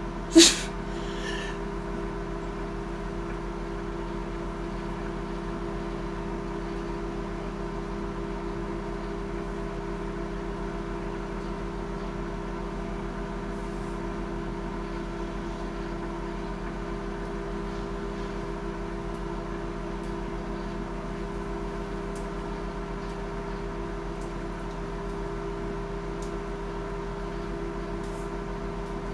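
Microwave oven running: a steady electrical hum made of several fixed tones, with a single sharp click about half a second in.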